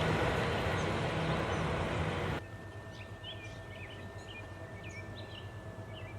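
Passing train, a loud steady rush of wheels on rail that cuts off suddenly about two seconds in. Afterwards birds chirp repeatedly over a faint steady hum and a thin steady whine.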